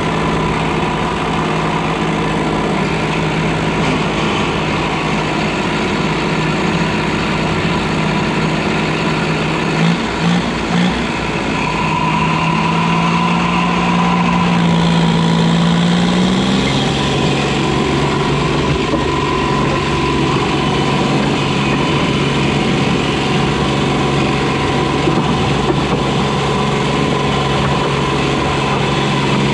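Diesel garden tractor engine running steadily, with a few quick revs about ten seconds in; its note then climbs slowly for a few seconds and drops back to a steady, lower pitch.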